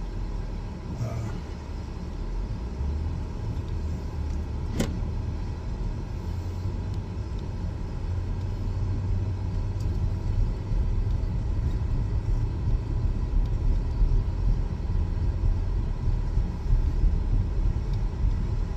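Buick car on the move, heard from inside the cabin: a steady low engine and road rumble that grows louder as it picks up speed, with one sharp click about five seconds in.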